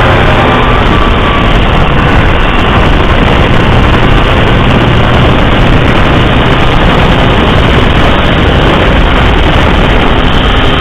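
Steady, loud road and engine noise of a car travelling at highway speed.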